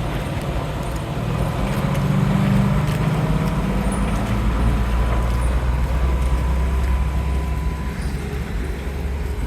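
Fire department ladder truck's diesel engine running as the truck pulls away up a steep path, a low steady drone that swells briefly about two seconds in.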